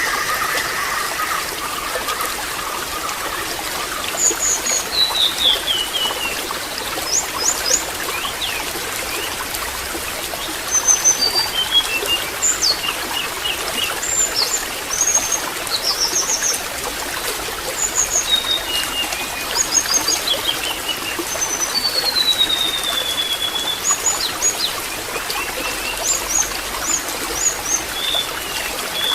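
Water trickling and gurgling steadily, with small birds chirping at intervals, giving short high notes and a few whistles that fall in pitch.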